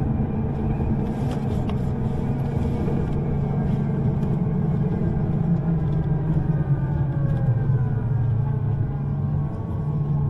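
U-Bahn train running, with a steady rumble. From about halfway through, the electric motors' whine falls slowly in pitch as the train slows down.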